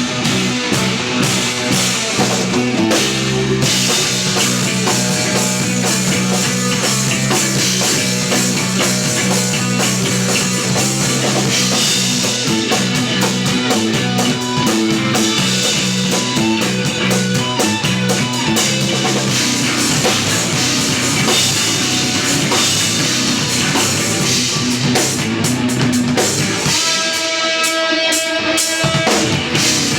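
An instrumental progressive/post-rock trio playing live: electric guitar, electric bass and drum kit at full volume. Near the end the bass and drums drop out for about two seconds, leaving the guitar on its own, then come back in.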